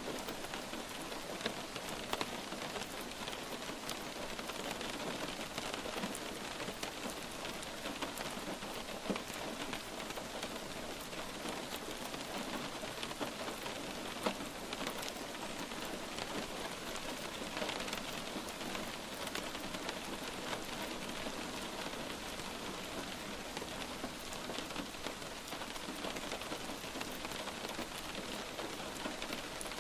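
Light steady rain falling, a soft continuous patter with individual drops ticking now and then.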